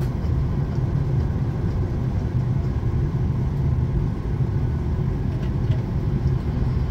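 Steady low rumble inside the cabin of a Boeing 737 MAX 8 airliner, even throughout with no single event standing out.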